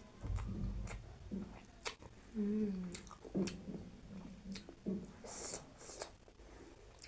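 A person chewing and eating close to the microphone, with wet mouth clicks and smacks throughout. There is a short hummed 'mm' about two and a half seconds in.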